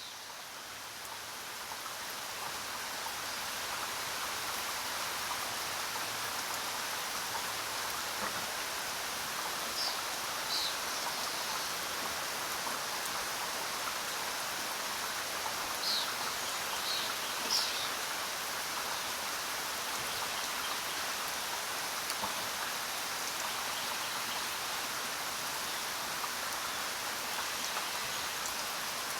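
Steady jungle rain falling, swelling up over the first few seconds and then holding even. A few short, high bird chirps come through about ten seconds in and again around sixteen to eighteen seconds in.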